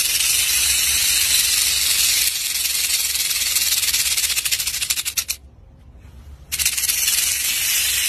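Snake hissing: a long, loud hiss that takes on a fast rattling flutter a little over two seconds in, breaks off after about five seconds and starts again a second later.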